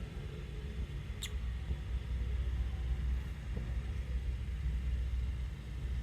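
A single short, high chirp from a lovebird about a second in, over a steady low rumble.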